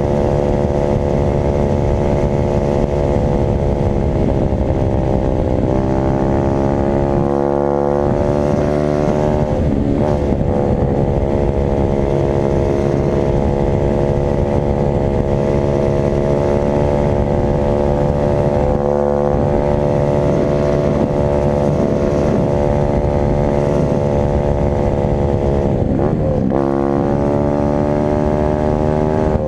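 Dirt bike engine running hard at high revs, its pitch holding steady for long stretches and dropping then climbing again a few times as the throttle is eased and reopened.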